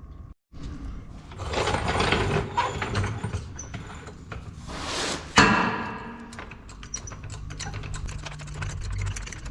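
Hand-tool and metal work noises: scraping and rattling, then one sharp metallic clang about five and a half seconds in that rings as it fades, followed by rapid light ticking.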